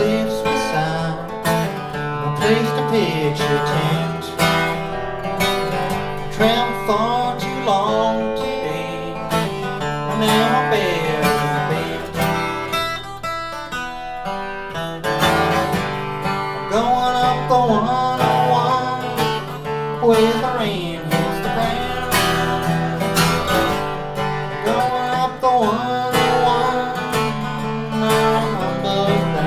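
Live country-folk band playing an instrumental break: acoustic guitar under a lead line that slides between notes.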